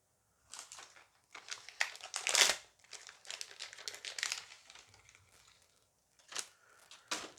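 Foil booster pack being torn open and crinkled by hand, an irregular run of crackling that is loudest about two and a half seconds in, followed by two short rustles near the end.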